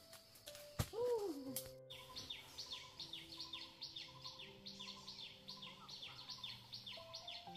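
Forest birdsong: a bird repeats a quick high note that slides downward, about four times a second. Before this there is a knock and a short rising-then-falling call, and the sound cuts abruptly near two seconds in.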